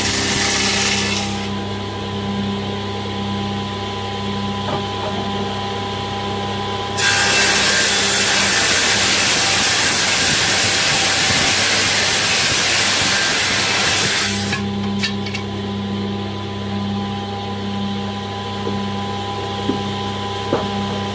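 A woodworking power machine's motor running with a steady hum. From about seven seconds in, wood is cut on it for about seven seconds, a loud rushing cutting noise, before the motor runs free again; a few light knocks come near the end.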